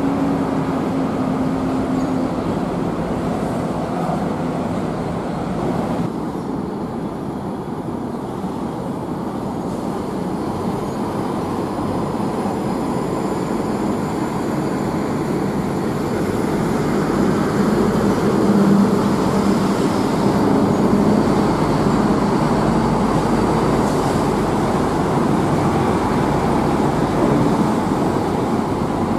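Steady hiss of heavy rain, with a bus engine humming underneath near the start and again around the middle.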